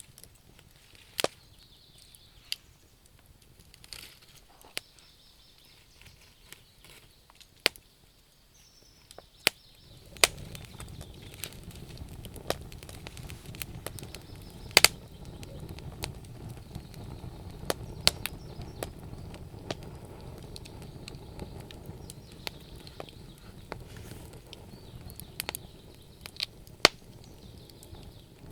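Wood fire crackling: irregular sharp pops and snaps from burning logs, a few of them loud. A low steady rushing sound joins in about ten seconds in.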